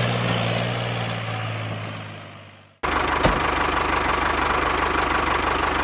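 Small electric motors of a homemade toy tractor and rotavator: a steady hum fades away over about three seconds. Then an abrupt cut brings in a motor buzzing with a fast rattle and a steady whine, with a click just after the cut.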